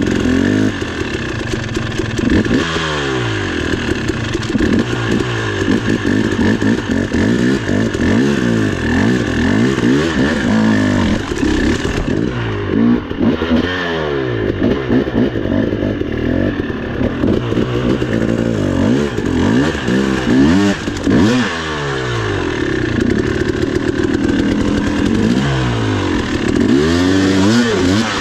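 Dirt bike engine revving up and down again and again, its pitch rising and falling every second or two as the throttle is worked in short bursts.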